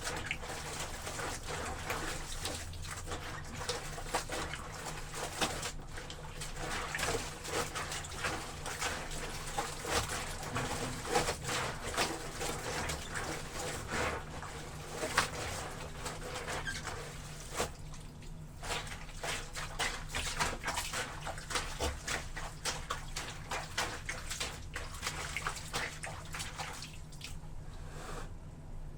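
Bare feet treading wet clothes in a basin of water, with irregular squelching and splashing.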